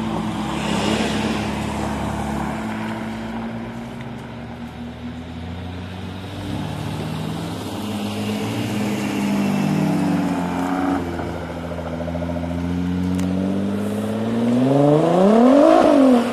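Car engine and exhaust as a BMW pulls away and accelerates up the road, the note climbing in pitch several times. Near the end a sharp rev rises and drops quickly, the loudest moment.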